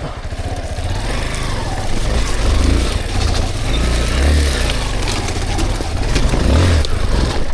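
Dirt bike engine running under load, the throttle opening in surges about two and a half, four and six and a half seconds in as the bike works its way over logs on a rough trail.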